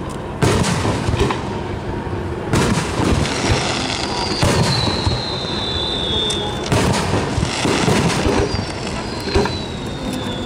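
Aerial firework shells bursting one after another, a boom about every two seconds, each followed by a rolling echo. A long high whistle sliding down in pitch comes twice, in the middle and near the end.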